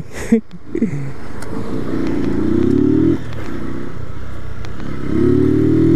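Honda CG 125 Fan's single-cylinder pushrod four-stroke engine pulling away under throttle. The revs climb, drop at a gear change about three seconds in, then climb again near the end.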